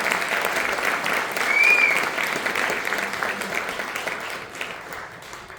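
Theatre audience clapping, dying away toward the end.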